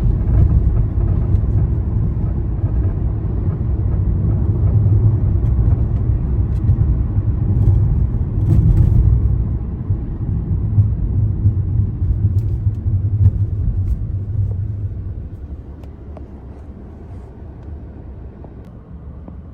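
A car driving, heard from inside the cabin: a steady low rumble of engine and tyre noise on the road, which drops noticeably about fifteen seconds in.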